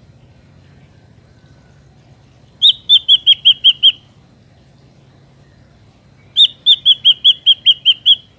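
Ashy drongo calling: two quick runs of loud, clear whistled notes, about five a second, the first of about seven notes and the second of about nine, each note dipping slightly in pitch.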